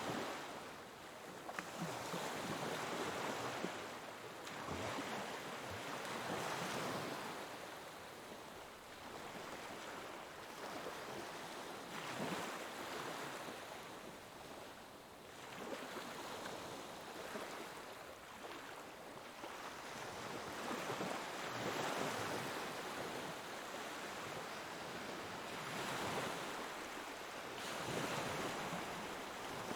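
Ocean waves breaking on a shore, the surf hiss swelling and easing every few seconds.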